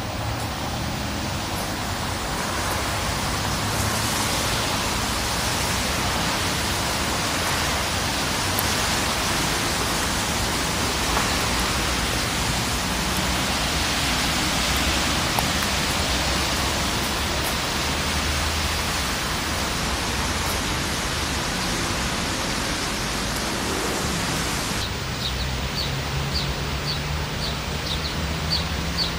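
Steady hiss of light rain falling. Near the end the hiss thins and a small bird chirps repeatedly, about two short calls a second.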